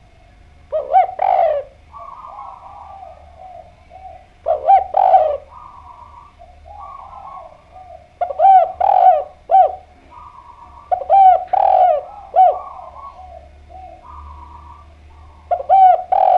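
Spotted dove (derkuku/tekukur) cooing in its usual phrases: five loud calls a few seconds apart, with softer, fainter bird calls between them.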